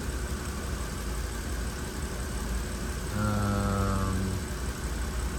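BMW 325i inline-six idling unevenly with a misfire on cylinder 1, caused by a faulty ignition coil moved there from cylinder 5. About three seconds in, a steady low hum lasts about a second.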